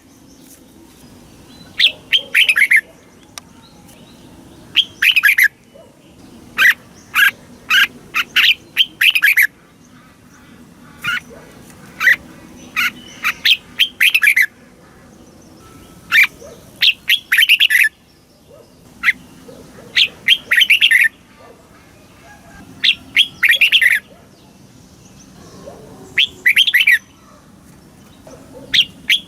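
Red-whiskered bulbul singing in short, loud phrases of sharp whistled notes, repeated every two to three seconds.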